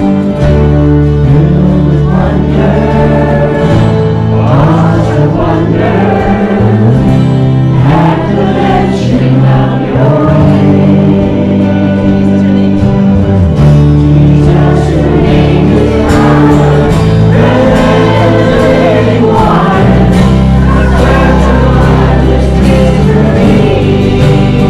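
Christian worship song: voices singing in a group over instrumental accompaniment, with long, sustained bass notes underneath.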